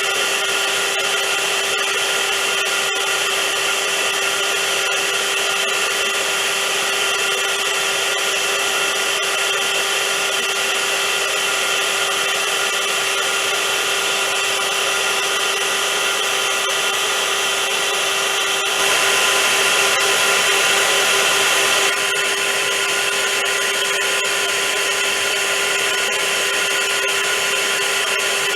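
Vacuum cleaner running steadily: a rushing airflow with a constant motor whine. It gets a little louder for about three seconds roughly two-thirds of the way through.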